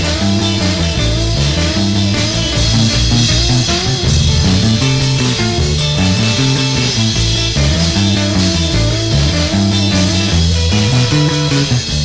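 Instrumental break of a rock song: a guitar plays a repeating riff of bending, wavering notes over a stepping bass line and drums.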